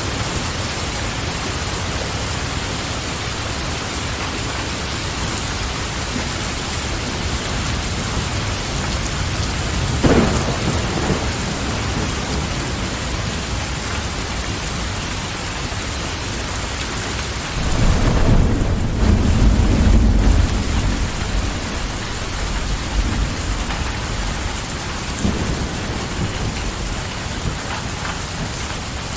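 Steady rain falling, with thunder: a sharp crack about a third of the way in, then a longer low rumble about two-thirds in, and a few fainter rumbles after it.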